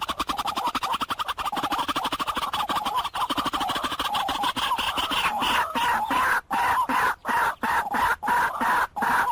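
White-breasted waterhen calling: a fast, unbroken run of repeated notes for the first six seconds or so, then groups of notes broken by short pauses.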